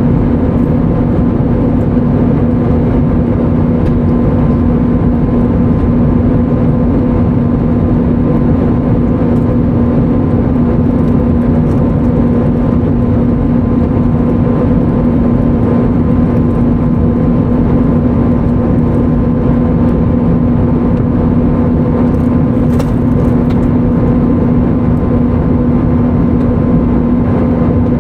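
Airbus A320neo cabin noise: a steady engine and airflow rumble with a constant low hum, unchanging throughout, heard from inside the passenger cabin.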